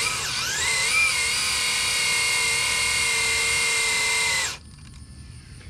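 Electric motor whining as it spins up, rising in pitch over about a second, then running steadily at high speed before cutting off abruptly after about four and a half seconds.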